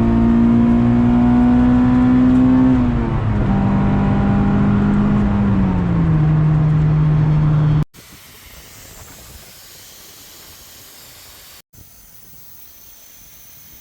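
Acura Integra GS-R's B18C1 1.8-litre VTEC four-cylinder running loud through its aftermarket Yonaka exhaust, the note climbing slowly and then the revs falling in two stages. About eight seconds in it cuts off abruptly to a much quieter steady hiss.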